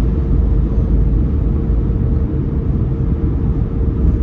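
Steady low road and engine rumble inside a moving car's cabin, with a faint constant hum above it.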